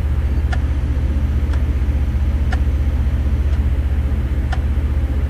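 Idling vehicle engine, a steady low rumble with a fast even pulse, and a faint tick about once a second.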